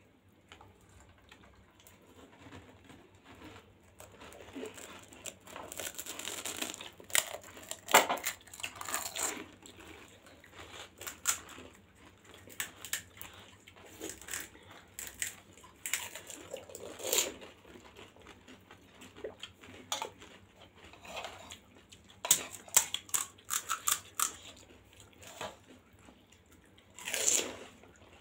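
Crisp panipuri (golgappa) shells being chewed, crunching and crackling in clusters of sharp cracks with quieter gaps between, and a longer, smoother swell of sound near the end.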